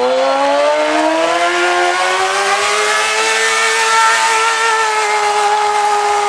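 Stunt motorcycle engine revving: its pitch climbs over the first three seconds, then is held steady at high revs.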